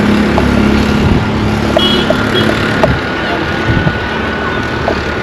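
Motor vehicle engine running close by and fading out about a second in, leaving a steady rumble of wind and road noise on the microphone with a few light clicks.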